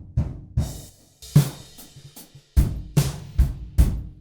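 Sampled acoustic drum kit, the Terra 1 kit of Toontrack's Alchemy of Pop EZX for EZDrummer 3 recorded with drumsticks, playing a groove of kick, snare and cymbal hits.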